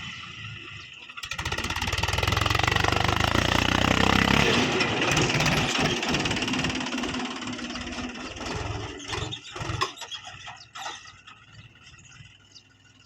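Tractor engine running, kicking in loudly about a second in and then dying away over the last few seconds with scattered knocks.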